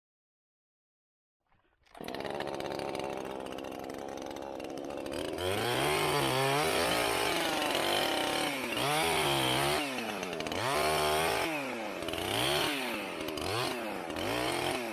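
Two-stroke chainsaw cutting into an oak limb. Silence for about two seconds, then the saw starts at a steadier, lower speed, and from about five seconds in its engine speed rises and falls again and again as the chain works through the wood.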